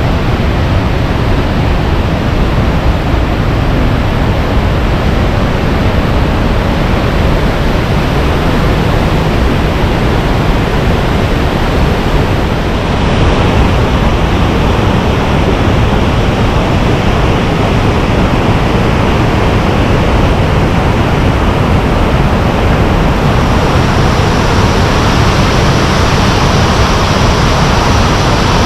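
Waterfall rushing close by: a loud, steady wash of falling water, growing brighter about halfway through and again near the end.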